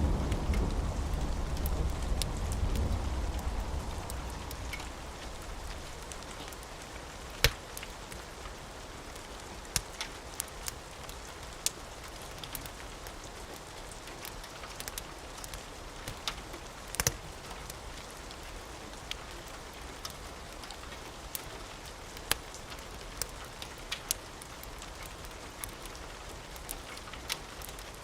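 Steady rain with a low rumble of thunder dying away over the first few seconds. Sharp, irregular pops of a crackling wood fire are scattered throughout.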